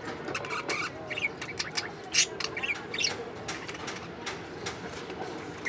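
Birds giving short, high chirps and squawks, scattered irregularly among sharp clicks and rustles.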